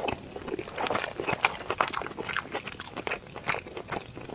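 Close-miked chewing of a mouthful of rice with stir-fried green pepper and shredded pork: a quick, irregular run of small crunches and mouth clicks.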